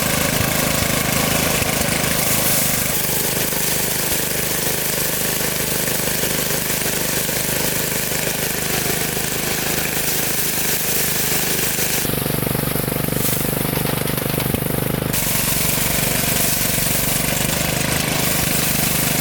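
Engine running steadily. For about three seconds late on, its tone shifts lower and fuller before returning.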